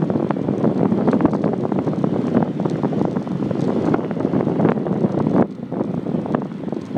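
Wind buffeting the microphone of a handlebar-mounted iPhone 4 on a moving bicycle, a loud, rough rush with many small knocks and rattles. It eases off a little about five and a half seconds in, then picks up again near the end.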